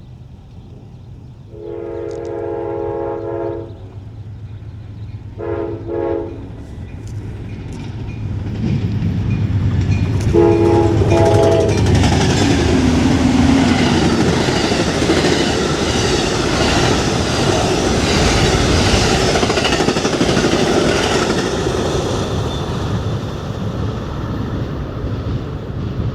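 Amtrak Empire Builder diesel locomotive sounding its multi-chime air horn three times as it approaches: a long blast, a short one, then another long one. Then a loud rumble and wheel clatter as the passenger train passes at speed, easing off near the end.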